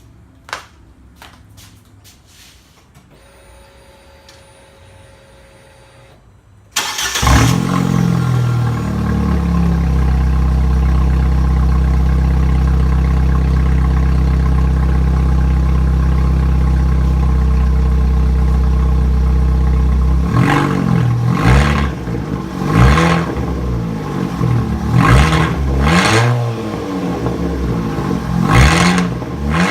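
Fiat 500 1.2-litre four-cylinder engine with the muffler deleted. After a few faint clicks and a faint steady tone, it starts about seven seconds in and idles steadily. From about twenty seconds it is revved in repeated short blips.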